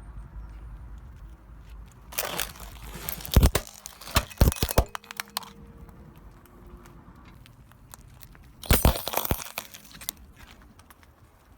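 Hard, brittle objects cracking and crunching under a car's tyre: a cluster of sharp cracks and snaps about two seconds in, then a second short burst of crunching a few seconds later.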